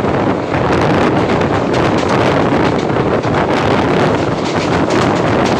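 Loud, steady rush of wind buffeting the microphone over the rumble of a moving passenger train.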